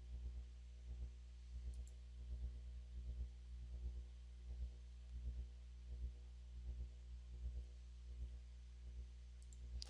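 Steady low electrical hum with faint, irregular soft clicks from a computer mouse and keyboard as values are entered.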